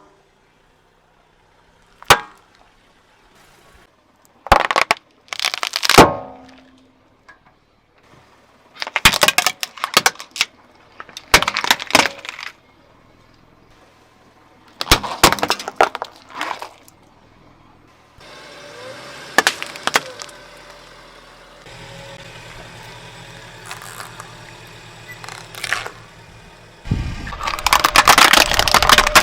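Objects cracking and breaking one after another as a car wheel crushes them: a string of separate sharp cracks and snaps, then, from about 27 s, a dense run of crunching.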